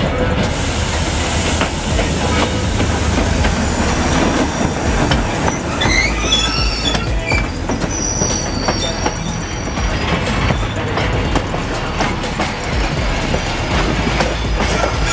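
Diesel-hauled freight train passing: the locomotive's engine rumbling and the wagon wheels clacking over the rails. A high squeal from the wheels on the rails comes in about six seconds in and lasts a few seconds.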